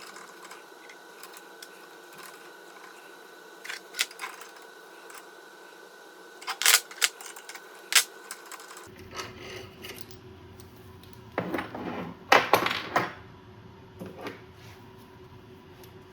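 Irregular sharp clicks and clinks of tools and small metal parts being handled, with a cluster of louder clanks near the end.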